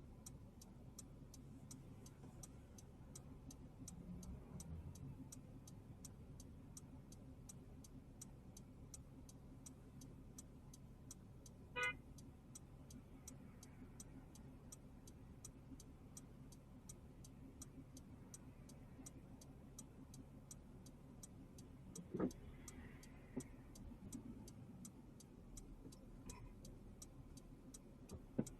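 Faint, evenly spaced ticking of a car's turn-signal or hazard-light relay inside the cabin, over a low steady hum. There is a brief horn-like toot about twelve seconds in and a short knock a little after twenty seconds.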